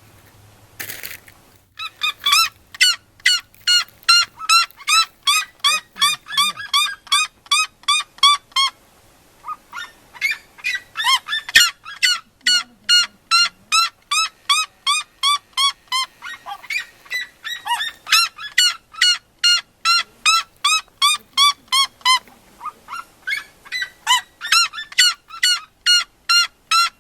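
Red-legged seriemas singing: long series of short, loud calls repeated about three to four times a second, with a brief pause partway through.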